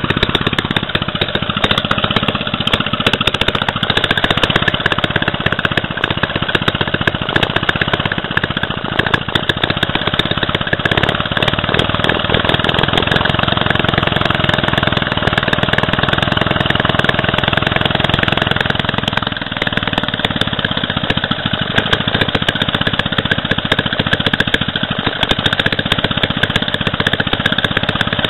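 Clinton 900 3 hp small engine running steadily after its repair, its rapid firing pulses even, with a slight shift in tone about two-thirds of the way through.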